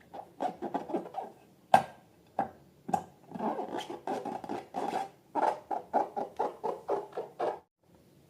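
Slime being squeezed and poked by hand, making a run of sticky clicks and pops: a few single pops at first, then a quicker string of about three or four a second that stops shortly before the end.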